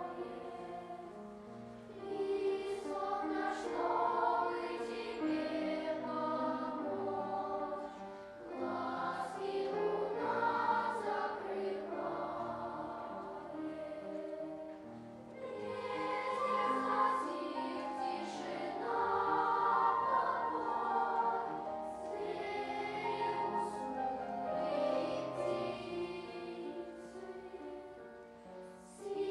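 Children's choir singing an Estonian folk lullaby, the sustained sung phrases swelling and easing every several seconds.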